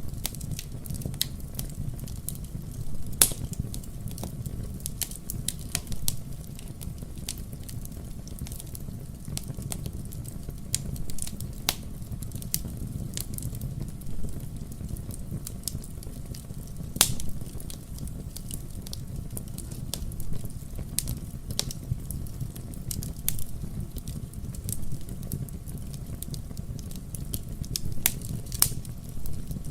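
Wood fire burning in a fireplace: a steady low rumble of flames with irregular crackles and sharp pops, the loudest about 3 seconds in and halfway through, and several close together near the end.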